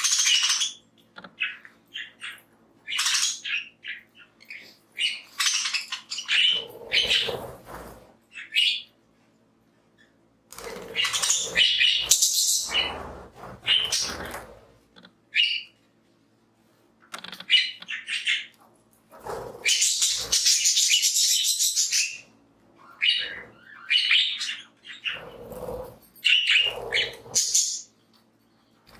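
A flock of budgerigars chirping and chattering in irregular bursts, with short quiet gaps between them.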